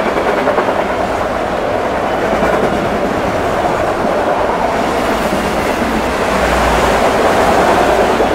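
Freight train of autorack cars passing at speed close by: a steady, loud rush of steel wheels on rail and rattling car bodies, swelling slightly near the end.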